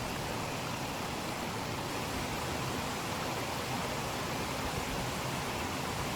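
Steady rush of a mountain brook's flowing water, an even hiss that does not change.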